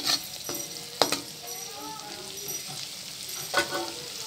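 Scrambled egg and sausage sizzling steadily in hot oil in a wok, stirred with a metal spatula that scrapes and knocks against the pan at the start, about a second in and again near the end.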